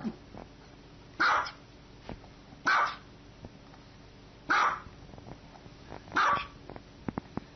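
A dog barking single, evenly spaced barks: four loud barks about one and a half seconds apart, with a few faint clicks near the end.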